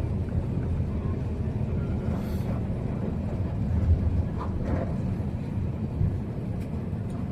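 Steady low rumble inside the cabin of an Airbus A380 taxiing after landing, with a few faint knocks.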